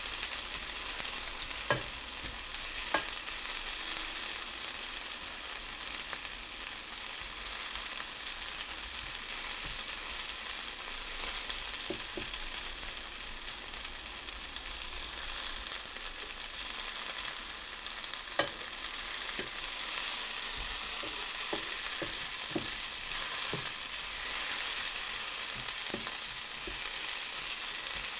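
Food sizzling steadily in a hot frying pan, with a few sharp clicks of a utensil against the pan.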